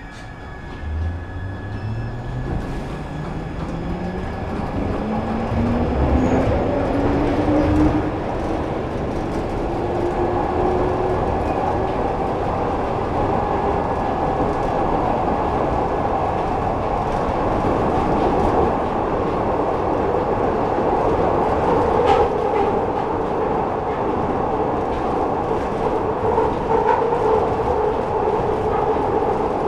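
Glasgow Subway train pulling away: its traction motor whine rises steadily in pitch for about ten seconds as it accelerates. It then settles into the steady rumble and wheel clatter of the train running at speed through the tunnel.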